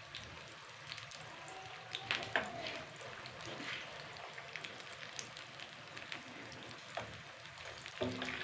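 Sliced potatoes frying in hot ghee in a wok: a steady crackling sizzle with scattered pops. A few sharper clicks come about two seconds in and again near seven seconds, as a metal spoon stirs in the pan.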